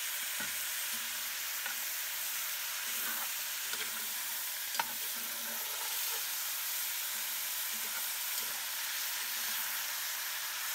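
Carrots and onions sizzling in a cast-iron Dutch oven as chicken stock deglazes the pan. A metal utensil stirs and scrapes the bottom to loosen the browned bits, with now and then a light click against the pot, the sharpest about five seconds in.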